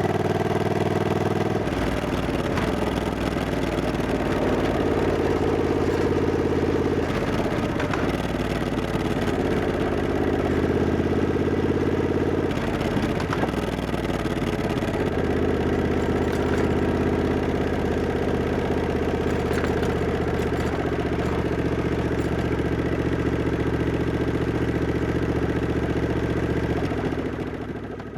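Triumph Scrambler 1200X's 1200 cc parallel-twin engine running, its note stepping between steady speeds every few seconds. The sound fades out near the end.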